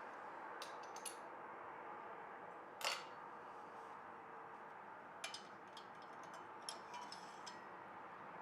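Scattered light metallic clicks and clinks of a Kohler engine's valve-train parts being handled as the rocker assemblies and push rods are taken off, the sharpest click about three seconds in and a few more in the second half, over a faint steady hum.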